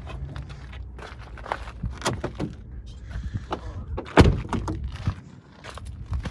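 A run of clicks and knocks from things being handled, with one loud thump about four seconds in, over a low rumble.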